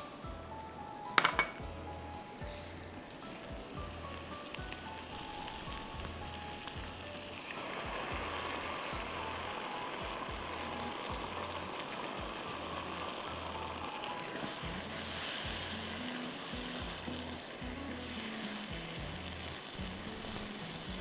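Stir-fry sizzling in a nonstick wok as red sauce is poured over sliced onion and capsicum and stirred with a spatula. The sizzle grows louder about eight seconds in. A sharp clink comes about a second in.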